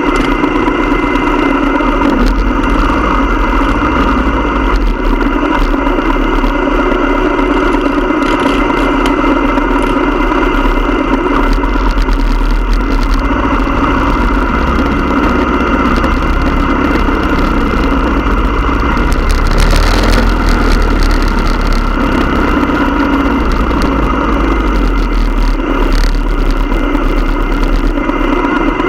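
Motorcycle engine running steadily at an even speed, with a brief louder rush of noise about twenty seconds in.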